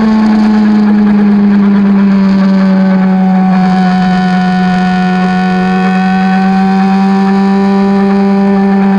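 Honda CBX400F inline-four running loud through an RPM 4-2-1 straight-pipe exhaust with the wool stripped and no inner baffle, held at a steady pitch while riding. The pitch eases down a little over the first few seconds, then holds even.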